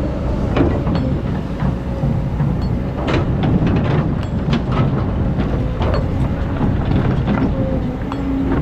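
Excavator's diesel engine running steadily, with frequent metallic clanks and knocks from the working machine.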